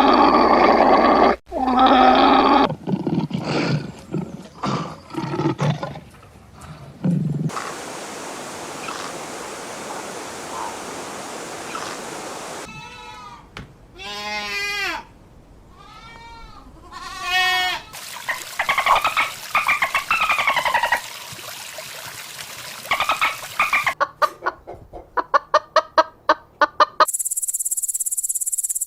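A string of short calls from different animals, cut one after another. It moves through low grunting pulses, repeated falling chirped calls and a fast rattle of ticks, and ends with a steady high-pitched trill.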